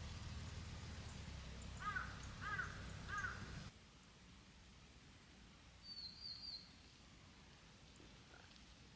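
A bird calls three times in quick succession, each a rising-then-falling note about half a second apart, over a low steady rumble that cuts off abruptly a moment later. A few seconds on, a small bird gives a brief high chirping trill.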